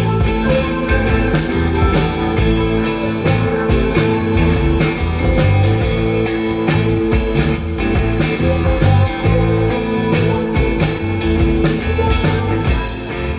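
Live rock band playing an instrumental passage with no vocals: guitar and bass holding sustained notes over a drum kit keeping a steady beat.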